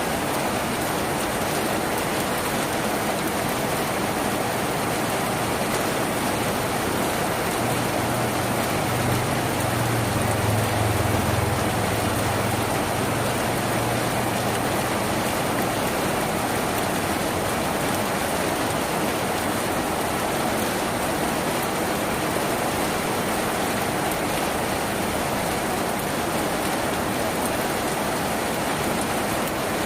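Steady rain drumming on a tin roof. A low rumble swells and fades for several seconds near the middle.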